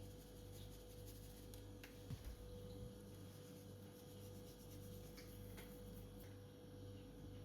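Near silence: a faint steady hum with a few faint clicks, and a soft low knock a little after two seconds in.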